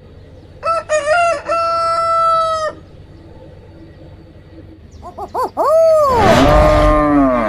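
Rooster crowing twice: a first crow about half a second in that ends in a long held note, then a louder crow near the end whose long final note falls in pitch.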